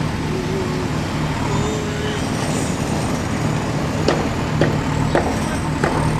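Heavy earth-moving machinery engine running steadily at a low, even pitch. About two-thirds of the way in comes a series of sharp knocks, roughly two a second.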